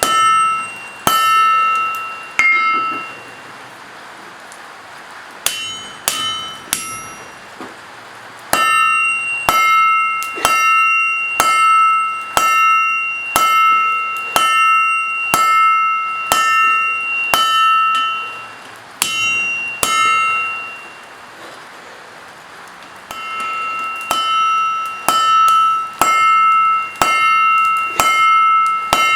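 Forging hammer striking steel on an anvil, about one and a half blows a second, each blow leaving a clear metallic ring. The hammering stops twice for a few seconds, once soon after the start and once about two-thirds of the way through.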